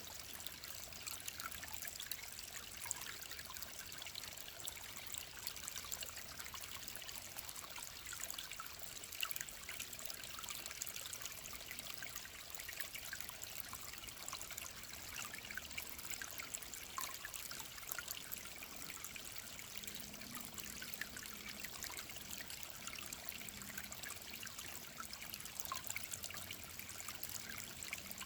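Clear mountain stream trickling steadily, a constant rush of water with many small fine splashes.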